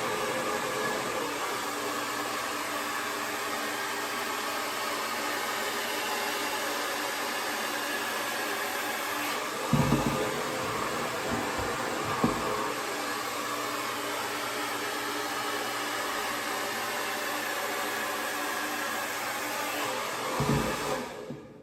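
Conair Testarossa 1875-watt AC-motor hair dryer running steadily, a constant rush of air over a faint motor hum, with a couple of brief knocks about ten and twelve seconds in. It is switched off at the very end.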